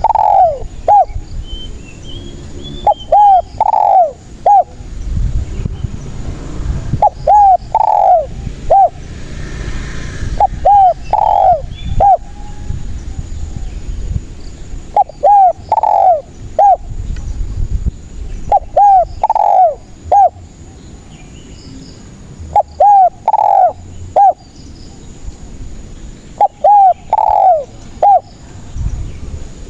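Spotted dove (tekukur) cooing its territorial song, a phrase of about four short notes repeated every three to four seconds, over a low background rumble.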